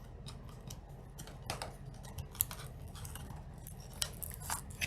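Rustling, scraping and small clicks of a trading-card theme deck box and its contents being handled and unpacked by hand, with one sharper click about two and a half seconds in.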